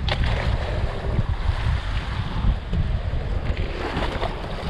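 Strong wind buffeting the microphone aboard a small fishing boat at sea, a heavy low rumble with the wash of waves. Brief sharper noises come at the start and again about four seconds in.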